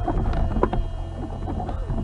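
Car on the move, its steady low engine and road rumble picked up by a dashcam microphone, with a few small knocks and clicks.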